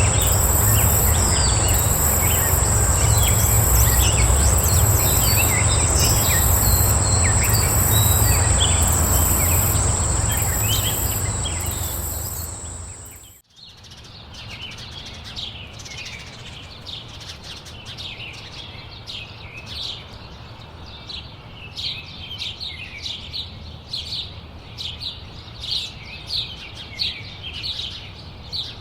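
Outdoor nature recording: loud steady background noise with a high, steady whine and faint bird chirps fades out about halfway, then after a cut, songbirds chirp in many short, quick calls that grow busier toward the end.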